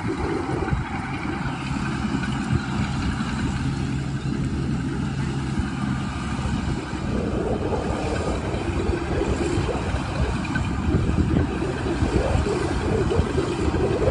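Medium-size rice combine harvester running, its engine note steady at first, then turning rougher and a little louder from about halfway through.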